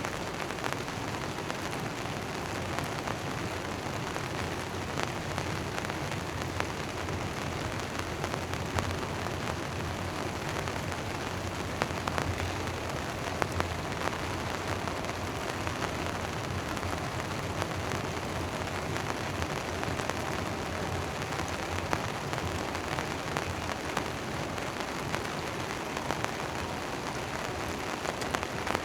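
Rain falling steadily on a tent tarp, with scattered sharp ticks of single drops hitting it.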